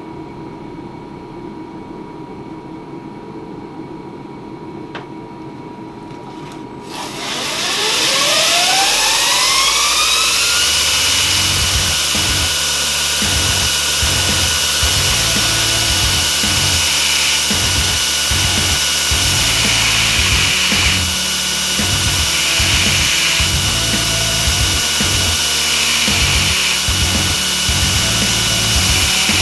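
Belt grinder motor starting about seven seconds in, its whine rising in pitch as it spins up, then running steadily. Several short stretches of steel being ground on the belt come later. Background music with a steady beat plays under it.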